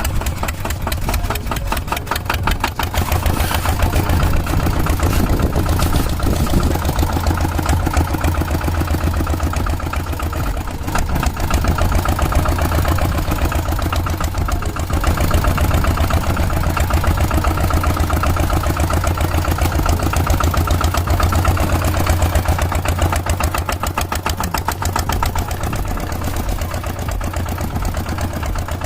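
A small engine running steadily with a fast, even chugging pulse, swelling and easing slightly now and then, as for the miniature Kubota tractor at work.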